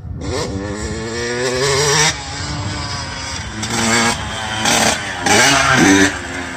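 Two-stroke engine of a 2003 Yamaha YZ125 dirt bike revving hard, climbing in pitch for about two seconds. Then comes a run of shorter throttle bursts whose pitch dips and rises between them.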